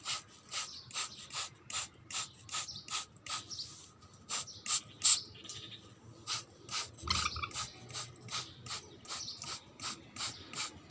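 Hand spray bottle squeezed over and over, each squeeze giving a short hiss of mist, about two and a half a second in a steady rhythm.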